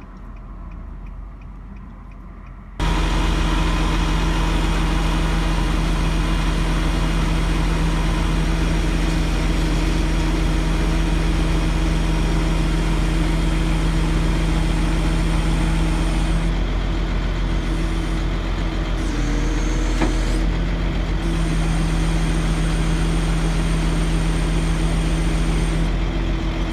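A motor vehicle's engine idling steadily, cutting in abruptly about three seconds in.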